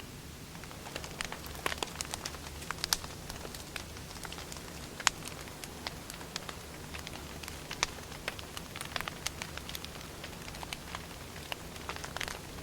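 Wood fire burning, with irregular crackles and sharp pops of the firewood, the loudest pop about five seconds in, over a steady low hum.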